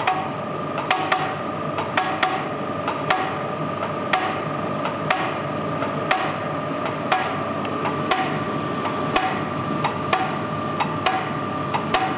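Diesel injector test stand in use: a steady mechanical hum with a sharp, even click about once a second.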